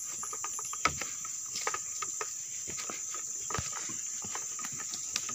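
Steady high-pitched drone of insects, with scattered sharp clicks and snaps over it, the loudest about a second in and again past the middle.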